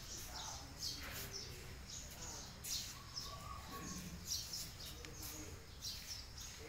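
Small birds chirping: short, high chirps repeating about once or twice a second over a low steady background hum.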